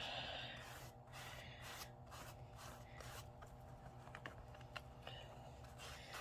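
Fabric ink being brushed onto a cloth doll body: soft, irregular rubbing and scratching strokes with a few small clicks, over a faint steady hum.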